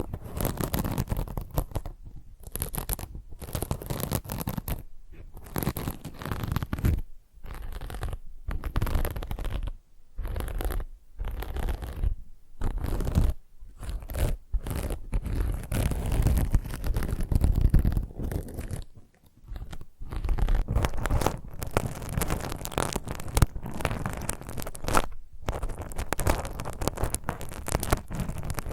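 Fingernails scratching and rubbing a scouring pad close to the microphone: dense, irregular scratchy strokes with brief pauses between them.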